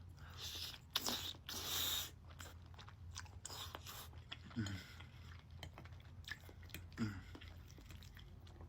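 Close-miked chewing and crunching bites of salad, with crisp crunches about a second in. Two short, low, falling murmurs come from the eater partway through.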